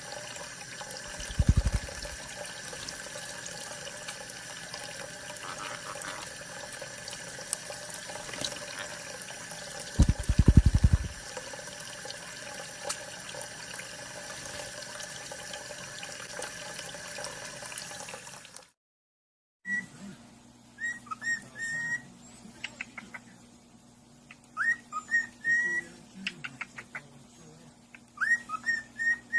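Steady running water, like a tap, with two short low thumps, then after a break a pet parrot whistling short notes that bend up and down in repeated little phrases, with quick clicking between them.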